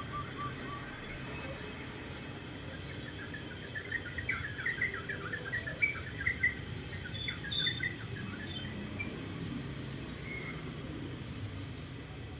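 A rapid flurry of short, high chirps, bunched between about three and eight seconds in, over a low steady rumble.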